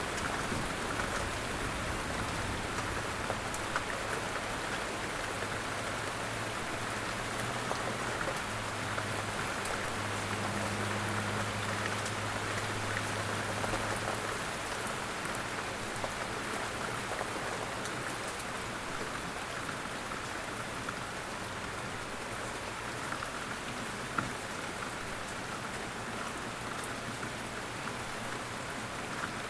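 Steady rain falling and pattering on a surface, with scattered individual drops. A low rumble runs under it and fades out about halfway through.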